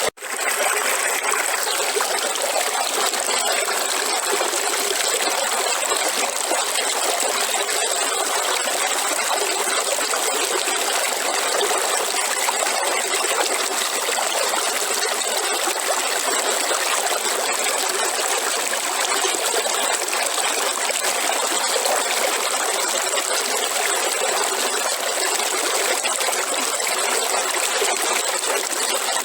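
River water flowing: a steady, even rush of running water with no deep rumble. It cuts out for an instant at the very start.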